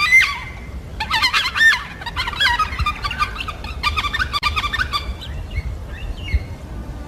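Yellow-tailed black cockatoos calling: a dense run of loud calls that bend up and down in pitch through the first five seconds, then fainter calls dying away, over a low steady rumble.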